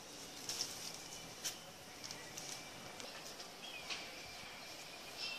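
Faint outdoor ambience with a few short, high bird chirps and small clicks scattered through it, one chirp gliding down a little before the end.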